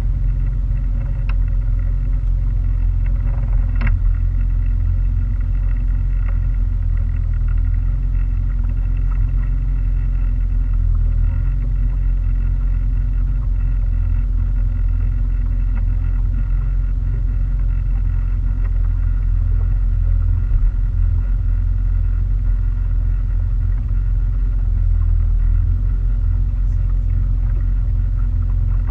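Motorboat engine running steadily underway: a constant low rumble with a steady hum over it.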